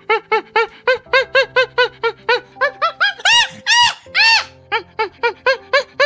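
A monkey calling: a fast series of short, pitched calls that rise and fall, about five a second, with a few longer and louder calls in the middle. Soft sustained background music plays underneath.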